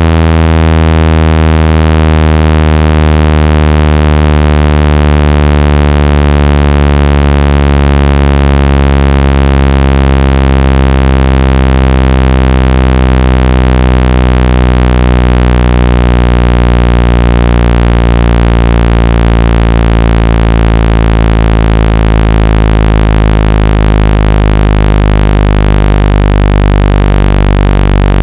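Electronically generated low buzzing tone, rich in overtones, sliding slowly down in pitch: a speaker-cleaning sweep meant to shake water and dust out of a phone's speaker.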